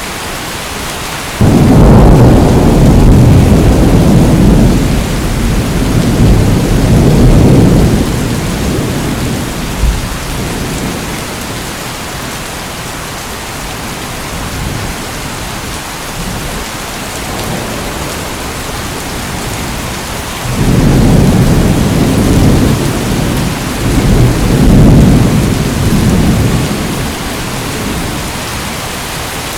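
Steady rain with two long rolls of thunder: the first breaks in suddenly a second or two in and rumbles for about seven seconds, the second swells up about two-thirds of the way through and rumbles for about six seconds.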